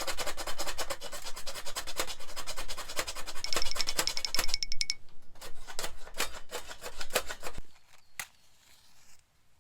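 Rapid repeated rasping scrape strokes, about ten a second, thinning to slower, separate strokes after about five seconds and stopping after about seven and a half seconds, followed by a few faint clicks.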